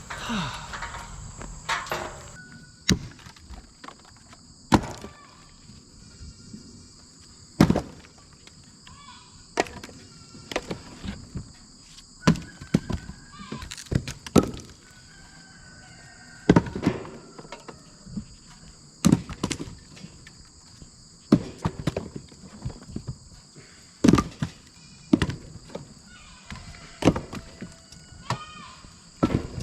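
Firewood logs tossed one by one onto a woodpile: a heavy wooden thunk every two seconds or so, over a steady chorus of insects.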